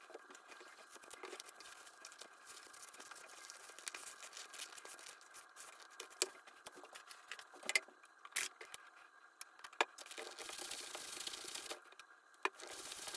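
Handling noise from work on a small leather baseball glove: rustling and scraping of leather and lacing, broken by scattered sharp clicks, with longer scraping stretches near the end.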